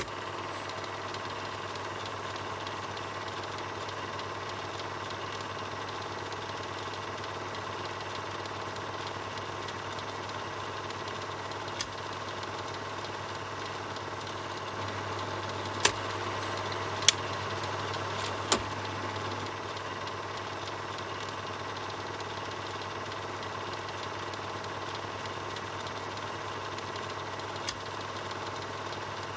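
Film projector running: a steady mechanical whirr with a low hum, broken by a few sharp clicks, three of them close together about sixteen to nineteen seconds in.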